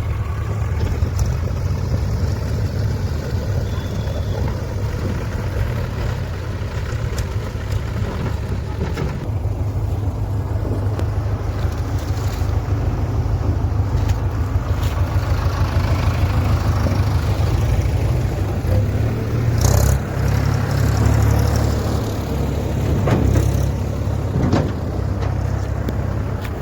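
Diesel engine running steadily under load, a deep continuous drone, with a few sharp knocks in the last third.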